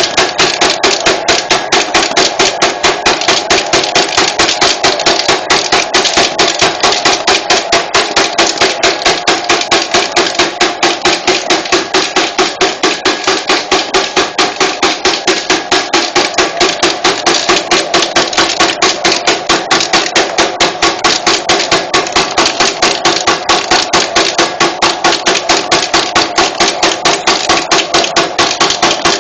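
Wire ring-making machine running on 2 mm wire: a fast, even run of sharp metallic clacks, several a second, over a steady motor hum.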